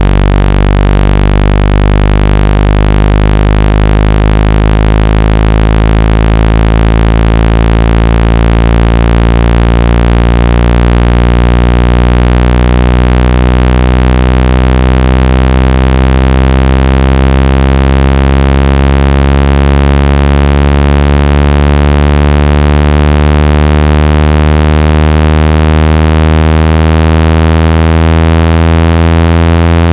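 Synthetic speaker-cleaning tone meant to shake water and dust out of a phone speaker. It is a loud, steady, low buzzing note full of overtones that slowly rises in pitch.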